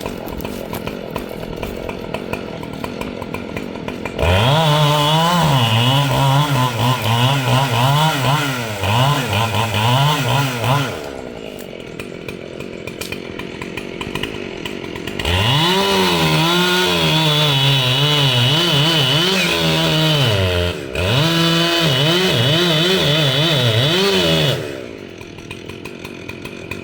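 Two-stroke chainsaw idling, then run up to full throttle for about seven seconds with its pitch wavering, dropping back to idle, then run at full throttle again for about nine seconds with a brief let-off partway through before it returns to idle.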